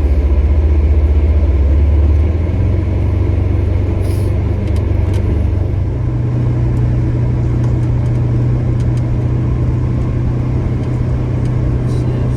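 Polaris Ranger Crew XP 1000 side-by-side's engine running steadily under way, a low drone that steps up in pitch about two seconds in and again about six seconds in.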